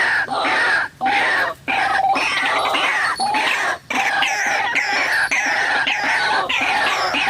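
White-breasted waterhen (ruak-ruak) calls: loud, harsh notes repeated rapidly in a continuous chorus, the lure call used to draw the birds to the snare. The calls cut out briefly three times, about one second in, just after, and near four seconds.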